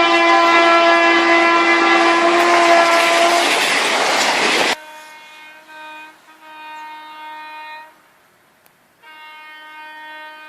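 Train horn sounding loud and steady over the noise of the train for about four and a half seconds, then cutting off abruptly. Quieter horn blasts follow: a short one, a longer one, and another near the end.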